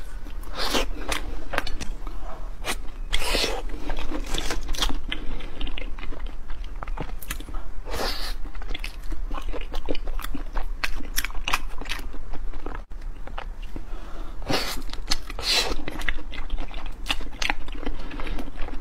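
Close-miked chewing and biting of soft filled mochi rice cakes: a dense run of small mouth clicks, with a louder bite every few seconds.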